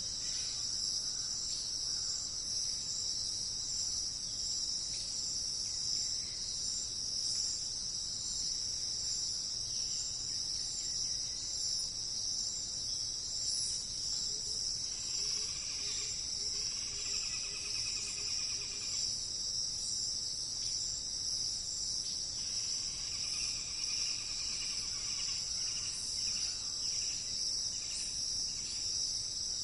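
Forest ambience: a steady, high insect chorus of crickets, with a bird singing two trilled phrases of a few seconds each in the middle.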